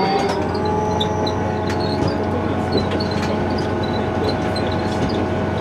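Diesel railcar running along the line, heard from inside: a steady engine and running drone with whining tones, and light clicks and rattles throughout.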